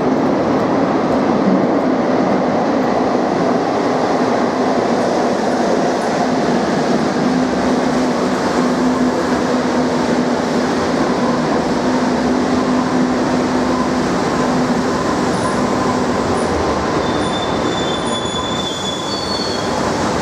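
Madrid Metro Serie 2000A train pulling into the station and braking to a stop: steady running noise of wheels and motors, a humming tone through the middle, and short high squeals near the end as it stops.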